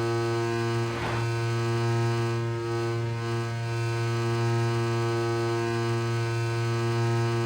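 A steady, loud electrical-sounding hum holding one low pitch with a stack of overtones, with a brief rustling noise about a second in.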